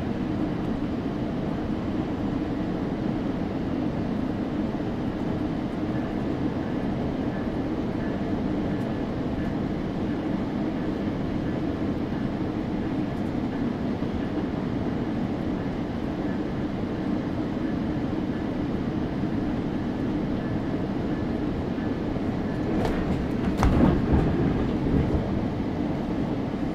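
GO Transit passenger train running on the rails with a steady rumble and a faint high whine. Near the end comes a brief, louder clatter of knocks.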